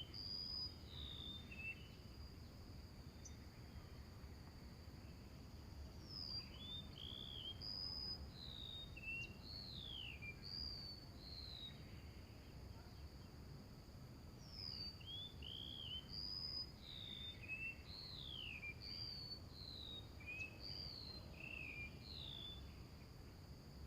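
Small birds calling in two runs of short, quick whistled chirps, some slurring down and some arched, over a steady high insect drone.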